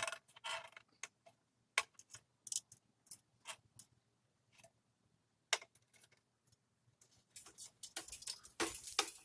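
Scattered light clicks and short rustles at irregular intervals, growing into a denser patch of rustling near the end: handling noise from the copper-pipe pole and hanger being worked among twigs and branches.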